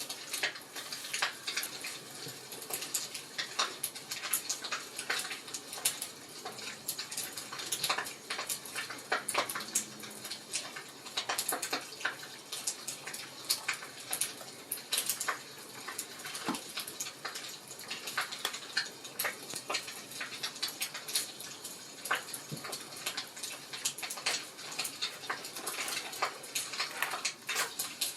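Wood fire crackling, with many irregular sharp pops and snaps over a steady hiss.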